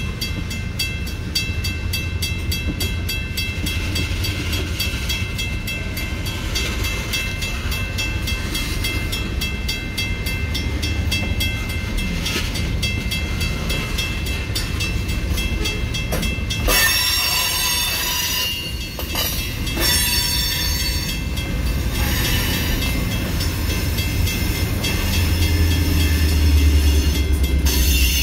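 Freight train of tank cars and hopper cars rolling past a road crossing: a steady low rumble of wheels on rail, with regular clicking as the wheels cross rail joints and a thin, high wheel squeal. About two-thirds of the way in a louder, harsher screech joins, and the rumble swells near the end.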